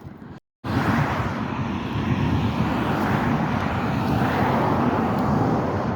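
Wind buffeting the microphone outdoors: a loud, steady rushing noise that starts abruptly after a brief cut about half a second in.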